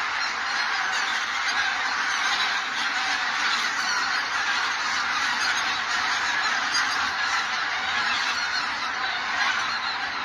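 A flock of wild geese calling together, a steady dense chorus of many overlapping honks.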